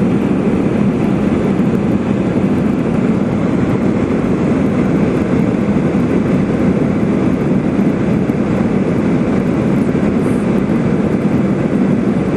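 Steady drone of an airliner in flight, heard inside the cabin from a seat behind the engine.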